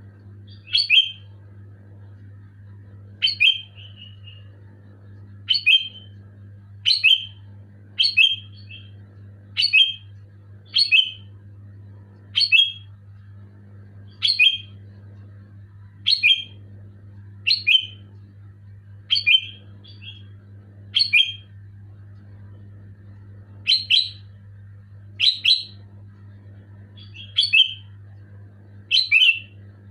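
Sooty-headed bulbul (kutilang) giving loud, short, sharp calls, repeated about once every second or so with a brief pause about two-thirds of the way through. A steady low hum runs underneath.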